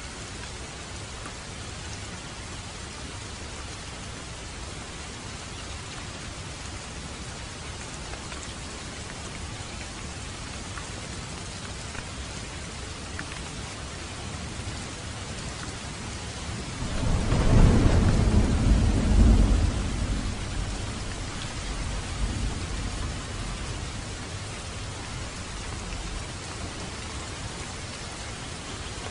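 Heavy rain falling steadily on a road and foliage. About halfway through, a roll of thunder breaks in low and loud, rumbles for a few seconds, then fades back under the rain.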